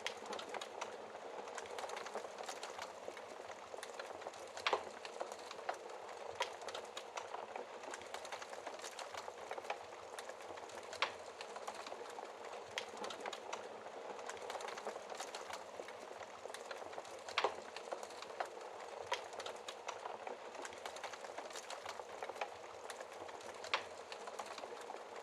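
Wood fire crackling in a fireplace: a steady soft hiss with irregular sharp pops and snaps, a few of them louder than the rest.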